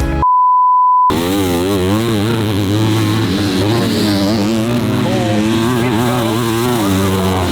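A steady high-pitched beep lasting just under a second, then motocross bike engines revving up and down continuously as bikes ride the track.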